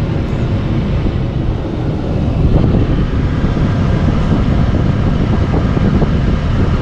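Steady low rumble of a vehicle's engine and tyres, heard from inside the cab as it drives.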